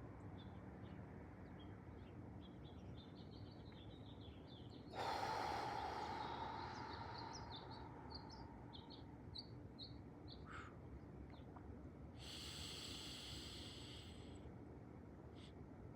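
Small birds chirping, with many short calls scattered throughout. About five seconds in, a person's loud breath starts suddenly and fades over a couple of seconds, and a softer hissing breath comes around twelve seconds in, part of a slow, controlled breathing exercise.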